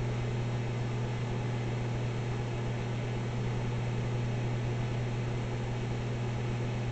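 Microwave oven running mid-cook: a steady low hum from its transformer under the even whoosh of its cooling fan.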